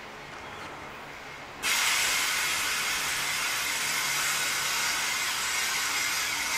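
Loaded coal train's hopper wagons rolling slowly past with a low rumble. About a second and a half in, a loud steady hiss cuts in suddenly and holds.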